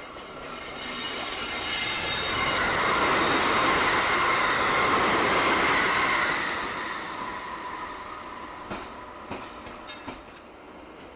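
An electric passenger train passing close by: wheel-and-rail noise swells over the first two seconds, holds for several seconds and fades away, with a thin high squeal about two seconds in. A few faint clicks follow near the end.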